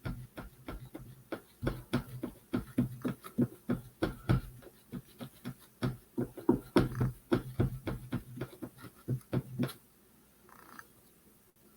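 Paintbrush dabbing metallic paint onto a wooden birdhouse, a quick irregular run of taps about four a second, stopping near the end.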